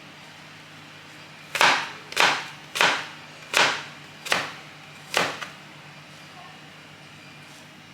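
A run of six sharp knocks, each with a short fading tail, spaced about half a second to a second apart, over a steady low hum.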